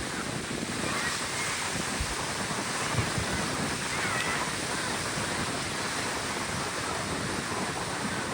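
Steady rush of surf breaking on the beach, with wind buffeting the microphone and faint distant voices.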